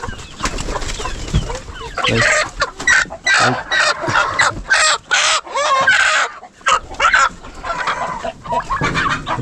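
Chickens clucking and squawking, a busy run of loud calls about two to seven seconds in.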